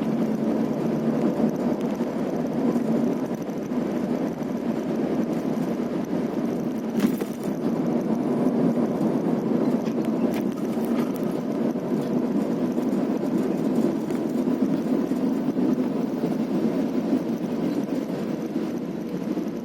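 Steady running noise of a vehicle travelling along a road, with one brief knock about seven seconds in.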